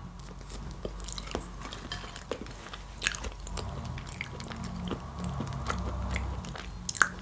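A person chewing food close to the microphone, with many small mouth clicks and smacks.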